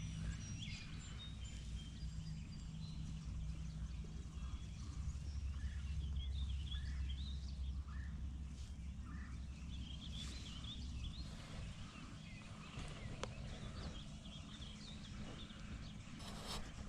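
Birds chirping and singing in short scattered calls over a steady low rumble.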